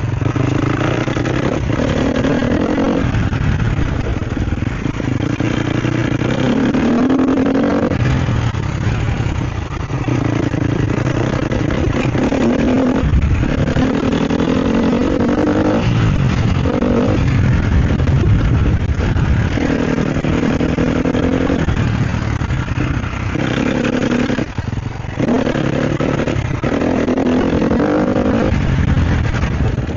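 Sherco SEF 250 four-stroke single-cylinder dirt bike engine pulling hard and revving up and down as the throttle is opened and chopped, with short drops in engine note several times.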